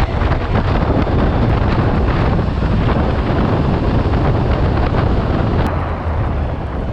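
Loud wind noise buffeting the camera microphone, an even rush heaviest in the low end, as when riding a motorcycle at speed.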